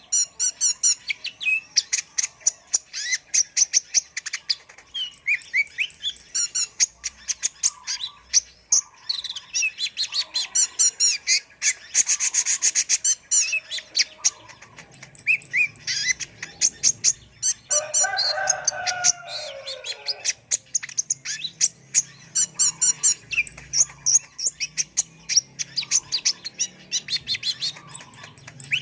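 Kolibri ninja sunbird singing vigorously: a dense, continuous run of rapid, high-pitched chirps and trills. A lower, falling call comes in about 18 seconds in.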